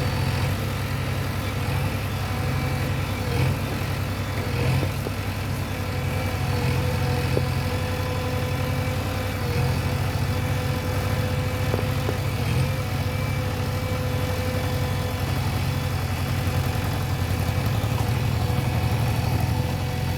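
Heavy diesel engine running steadily with an even low throb, joined through the middle by a faint steady whine.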